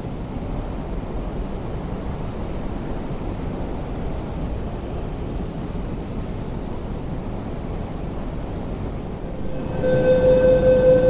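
Steady low rumble of a train approaching through a rail yard. Near the end it gives way to a steady, pulsing pitched tone from an East Rail IKK-train standing at a platform with its doors open.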